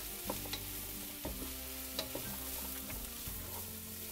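Chopped vegetables sizzling in hot oil in a wok, stirred with a wooden spoon that clicks and scrapes against the pan now and then. Quiet background music runs underneath.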